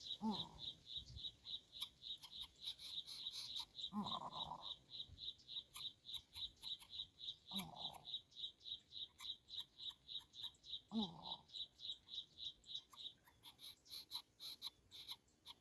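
A rapid, even train of high chirps, about six a second, with a short low call that slides down in pitch every three to four seconds.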